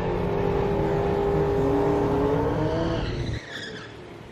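A drag racing car's engine held at high revs with a steady note, rising in pitch a little past two seconds in, then dropping away sharply about three and a half seconds in.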